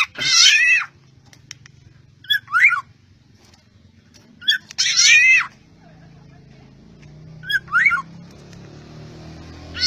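Black-naped oriole (kepodang) calling: a series of short whistled calls about every two to three seconds, each a quick note followed by a downward-sliding whistle.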